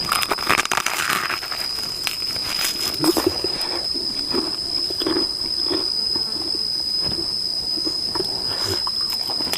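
A steady high-pitched insect drone, with a person chewing and biting into a sandwich: soft irregular crunches and mouth sounds.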